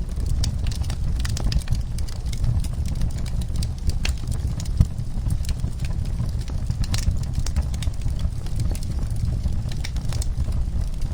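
Wood fire in a fireplace crackling: scattered sharp pops and snaps over a steady low rumble of burning.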